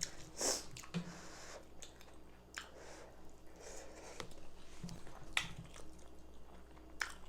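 Close-up chewing and biting: soft, wet mouth sounds with scattered small clicks as food is eaten.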